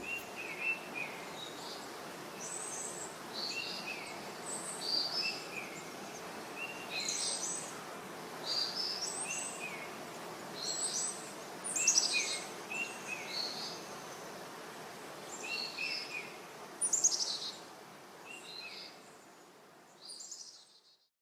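Birds singing, short chirping phrases repeating every second or so over a steady background hiss of outdoor ambience, fading out near the end.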